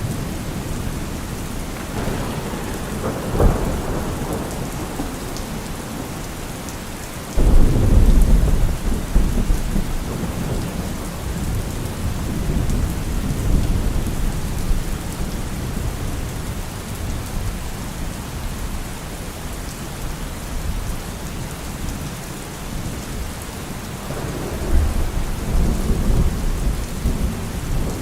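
Steady rain with rolling thunder: a short rumble a few seconds in, a loud clap about seven seconds in that rumbles away over several seconds, and another rumble near the end.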